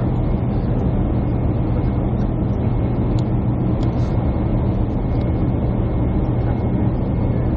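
Steady cabin noise inside a jet airliner: a deep, even drone from the engines and the airflow.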